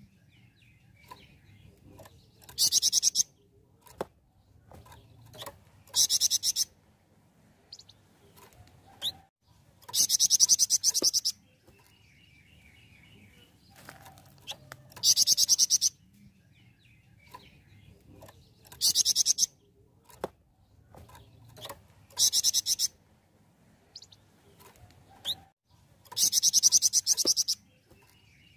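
Flamboyan (golden-bellied gerygone) singing in full song: very high, rapid trilled phrases of one to one and a half seconds, repeated about every three to four seconds, seven times.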